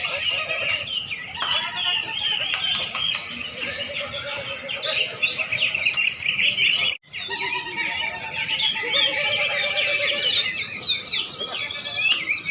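Many contest songbirds singing and chirping at once, a dense overlapping chorus of high chirps and whistled phrases. The sound cuts out completely for a moment about seven seconds in.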